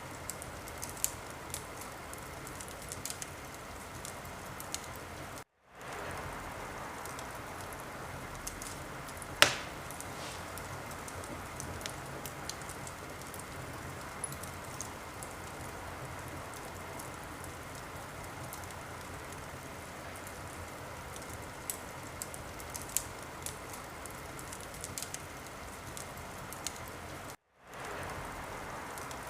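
Wood fire crackling in a fireplace: a steady hiss scattered with small pops, and one sharp, loud pop about nine and a half seconds in. The sound cuts out for a moment twice, about five and a half seconds in and again near the end.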